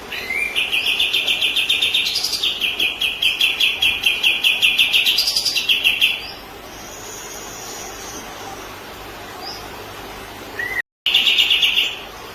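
Kapas tembak (pied triller) song: a fast, even run of repeated chirping notes for about six seconds, then a shorter burst of the same notes near the end.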